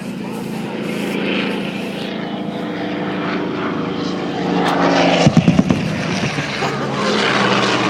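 Douglas AD-4NA Skyraider's 18-cylinder Wright R-3350 radial engine running as the propeller plane flies past, slowly growing louder. A quick cluster of heavy low thumps sounds a little past halfway.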